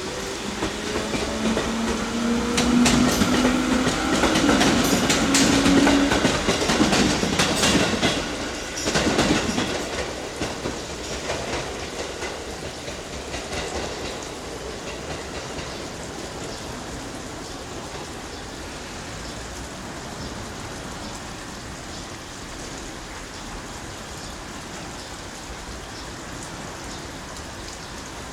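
An Echigo Tokimeki Railway ET122 diesel railcar passes. Its running whine rises in pitch while the wheels click over rail joints, loudest in the first few seconds. It fades away by about ten seconds in, leaving a steady hiss of rain.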